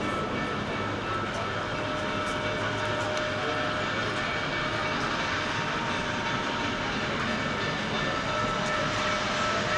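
Steady mechanical running noise of the 1880 Train on the Black Hills Central Railroad, an even rumble with a few faint held tones.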